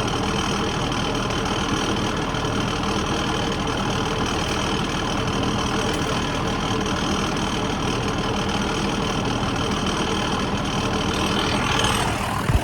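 A vehicle engine idling steadily, with no revving.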